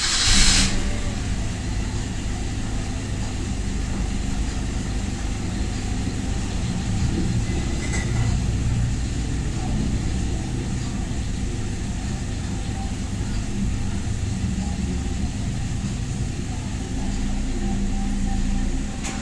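Toyota Revo pickup engine starting with a brief burst of noise at the very beginning, then idling steadily.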